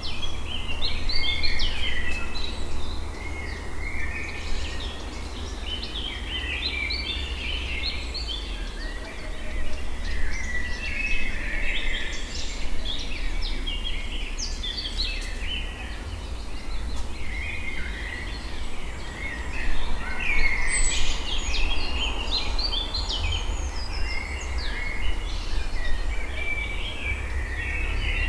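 Several birds singing and calling together, a dense run of short chirps and whistled notes throughout, over a steady low rumble.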